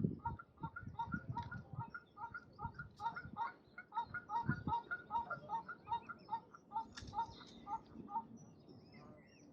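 Ducks calling in a long, steady run of short, evenly spaced notes, about four a second, that stops near the end. Fainter high chirps from small birds sound over it.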